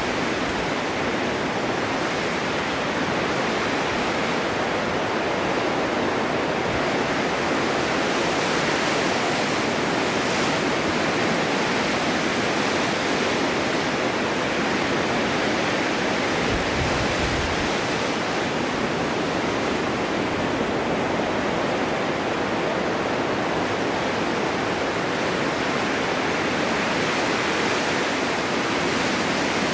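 Steady winter wind blowing through a snowstorm: a constant rushing hiss that swells and eases slowly, with a brief low rumble about two-thirds of the way through.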